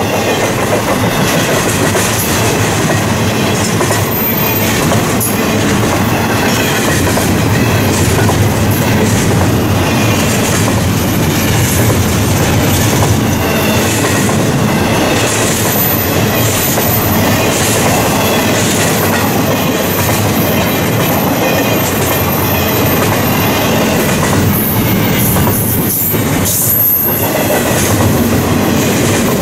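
Train passing close by, wheels clattering over the rail joints, steady and loud, with brief high wheel squeals now and then.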